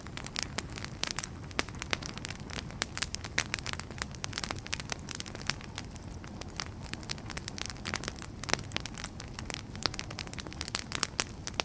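Wood fire crackling and popping, with irregular sharp snaps over a steady low rumble of burning logs.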